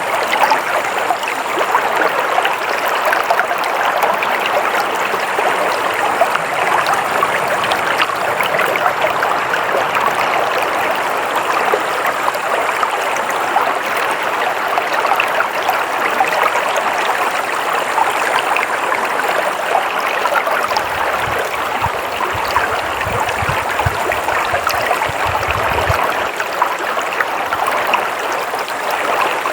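Stream water flowing and babbling steadily, an even rushing hiss. A low rumble joins it for a few seconds past the middle.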